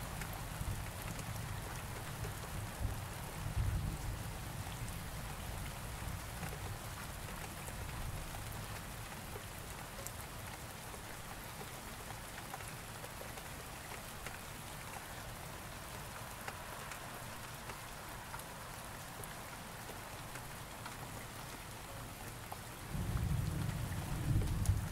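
Steady rain with rolling thunder. A low thunder rumble fades away over the first few seconds, and another rumble sets in near the end.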